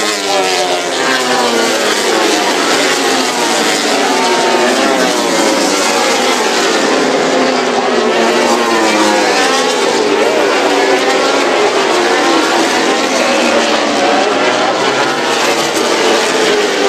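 A field of 1000cc four-stroke MotoGP racing motorcycles accelerating hard from a standing start. Many engines howl together, each pitch climbing and dropping repeatedly as the riders shift up through the gears on the run into the first corner.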